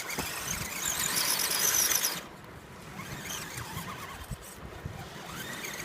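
Small electric motor and gears of an RC scale crawler whining under throttle, with the pitch gliding up and down. It is loudest for the first two seconds, drops off, then rises again near the end.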